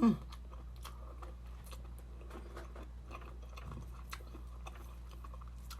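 Close-miked chewing of food, a scatter of small soft crunches and mouth clicks at an unhurried pace over a steady low hum.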